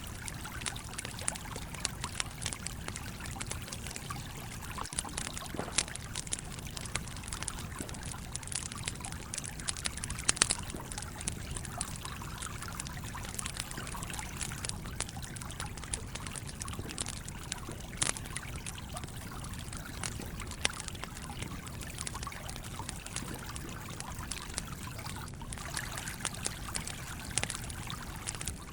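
Stream water flowing steadily, with a campfire crackling in scattered sharp pops over it; a few pops stand out louder, the loudest about ten seconds in.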